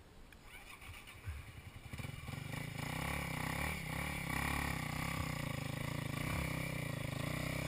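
An engine comes up about two seconds in and then runs steadily, with a few knocks.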